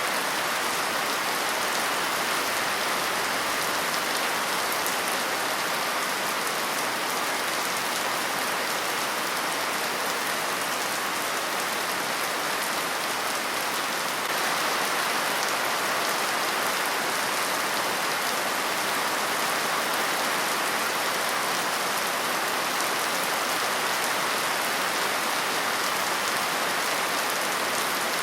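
Steady, heavy rain falling, an even dense patter of drops with no music, getting a little louder about halfway through.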